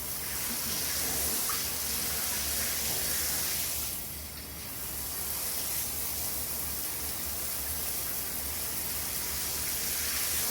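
Shower spray running steadily, an even hiss of falling water that dips slightly in level about four seconds in.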